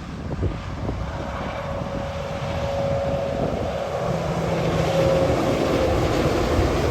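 Heavy truck approaching, its engine and tyre noise growing steadily louder, with a steady whine running through it.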